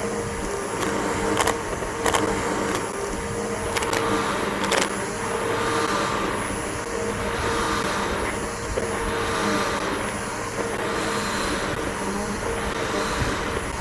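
Bissell BigGreen PowerForce upright vacuum cleaner motor running steadily with a constant whine, outdoors on grass. Several sharp clicks come in the first five seconds. Later the sound swells and dips about every two seconds.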